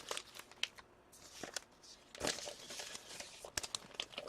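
Plastic trading-card pack wrappers crinkling and tearing as hockey card packs are opened, with sharp crackles and a longer rustle about two seconds in.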